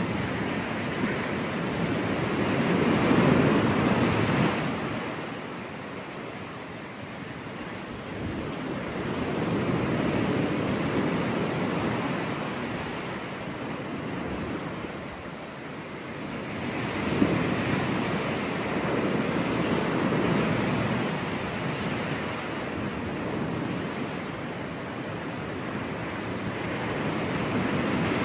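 Ocean surf on a beach: waves break and wash in, rising and falling about every seven seconds. The loudest break comes about three seconds in.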